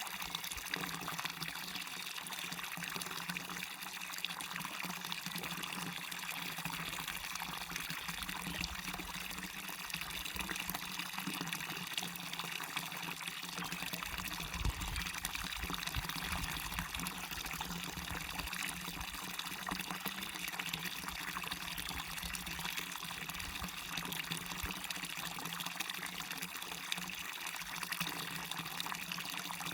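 Small waterfall with a steady rush of falling, splashing water. A low rumble comes and goes in the middle.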